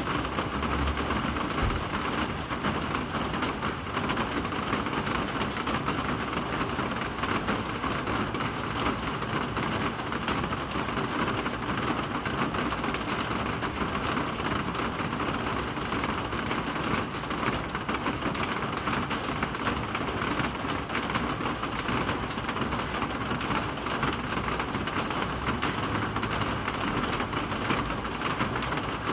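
Rain falling steadily, an even hiss of drops that does not let up.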